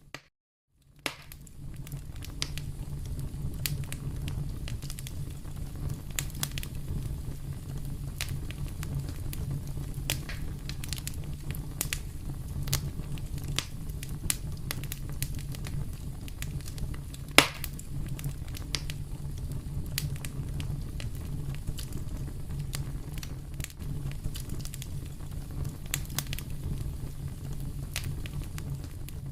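Wood fire in a fireplace crackling, with frequent small pops over a steady low rumble and one loud pop a little past halfway. The sound cuts out briefly just after the start.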